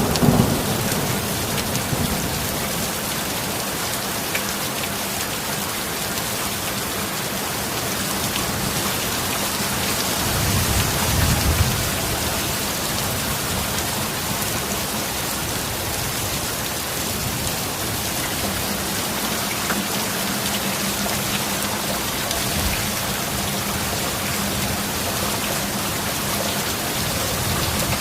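Steady heavy rain, with the tail of a thunderclap dying away at the start and a low roll of thunder about ten seconds in.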